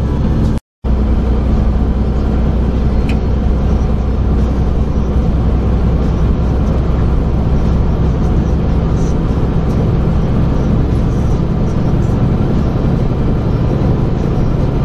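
Steady low drone of a Super B train truck's diesel engine and road noise heard inside the cab. The sound drops out completely for a moment just under a second in.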